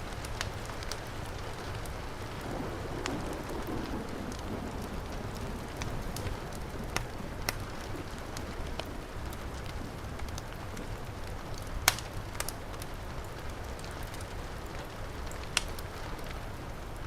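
Steady heavy rain mixed with a wood fire crackling, with sharp pops scattered through it; the loudest pop comes about twelve seconds in.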